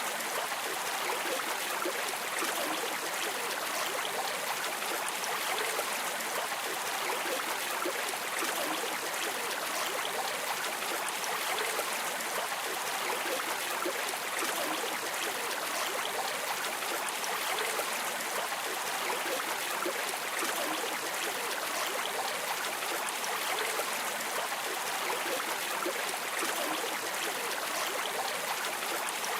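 River water flowing and rippling in a steady, even rush.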